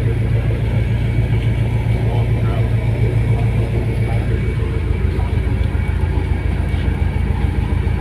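Ocean Jet fast ferry's engines running with a steady, loud, low drone.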